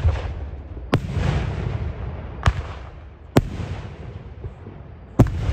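Aerial fireworks display: five sharp bangs at uneven intervals, the first the loudest, each followed by a low rolling rumble.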